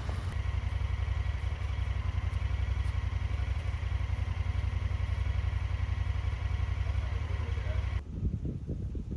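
A motor running steadily with a fast low throb, which cuts off abruptly about eight seconds in. Uneven low rumbling follows it.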